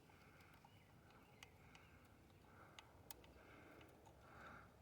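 Near silence, with a few faint clicks and a soft sound that repeats about once a second.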